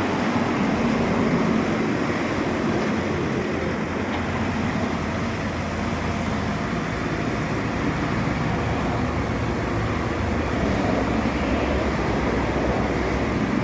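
Steady motor-vehicle running noise: an engine's low hum under an even rush of road noise, without a clear change.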